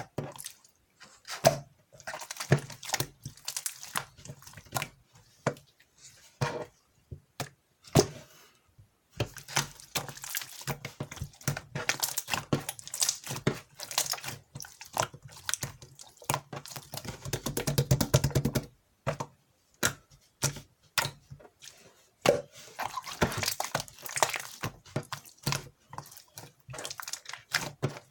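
Clear slime being squished and poked by hand, making sticky clicks, pops and crackles. Partway through, a quick buzzing squelch sounds as air is pushed out of the slime.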